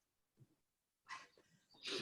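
Two short, faint, breathy exhalations from someone exercising hard, one about a second in and another near the end, with near silence between.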